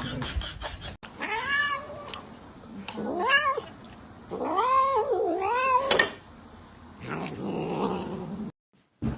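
A cat meowing in three long, drawn-out calls that rise and fall in pitch, the third the longest and wavering, like yowling.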